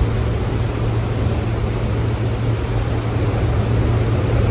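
Ocean surf, heard as a steady wash of noise with a strong low rumble.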